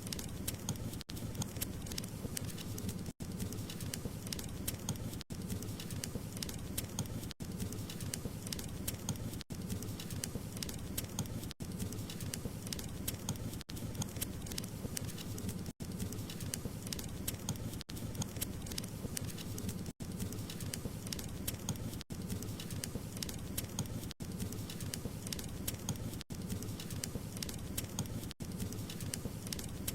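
Burning wood crackling steadily in a fireplace: many small sharp crackles over a low, even rumble of flame. Very brief dropouts come about every two seconds.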